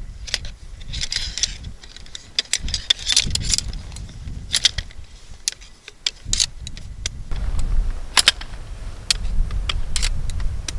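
Irregular sharp clicks and light clinks, a few close together, over a steady low rumble.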